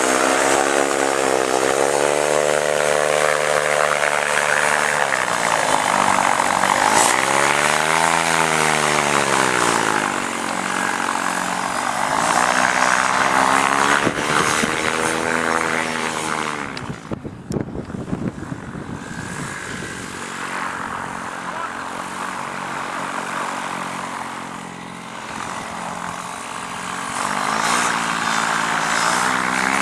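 Paramotor engine and propeller running, the throttle opened and closed so the pitch swells up and down several times. About seventeen seconds in it drops back sharply, runs lower and quieter for a while, then rises again near the end.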